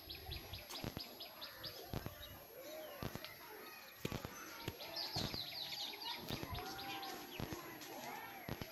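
Small birds chirping outdoors, with a fast run of short, high repeated chirps at the start and again about five seconds in, and other scattered bird calls between.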